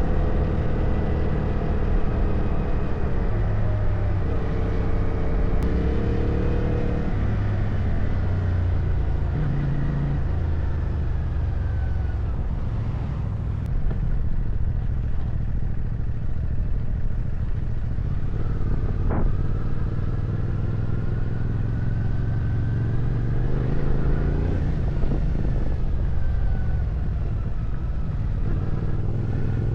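Motorcycle engine running under way, its pitch rising and falling as the throttle is opened and closed, over a steady low rumble.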